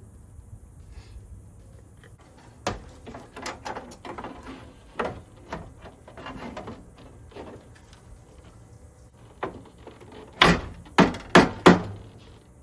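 Clicks and knocks of hands and tools working on a pickup's door during reassembly, ending in four sharp, loud knocks in quick succession near the end.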